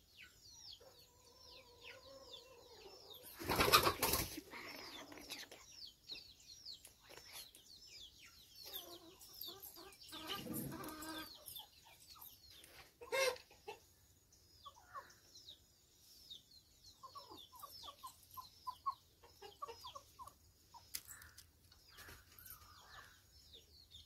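Birds chirping in a steady run of short, falling notes. A loud burst of noise about four seconds in, a smaller one about ten seconds in, and a sharp click shortly after.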